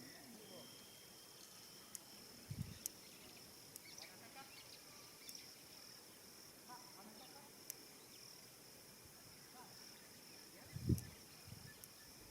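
Quiet savannah evening ambience: a steady, high-pitched insect drone with faint scattered distant calls and small ticks. Two soft low thumps sound a few seconds in and again near the end.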